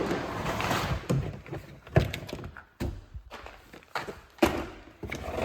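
A series of thunks and knocks, with some rustling, as a box of painted motorcycle parts is pulled out and its parts are handled.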